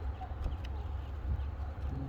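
Button quail moving about in their coop: scattered light clicks of pecking and scratching in the substrate, with a faint short chirp near the start, over a steady low hum.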